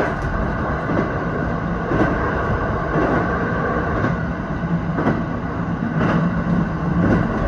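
Electric passenger train running at speed, heard from its cab: a steady rumble of wheels on rails with a click about once a second as the wheels cross rail joints, and a steady low hum over the later seconds.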